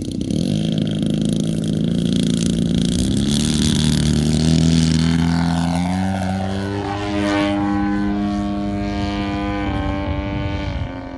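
Engine and propeller of a 40%-scale radio-controlled Extra 300 running at high power, its pitch stepping up twice as the throttle is opened, then holding steady before easing off near the end.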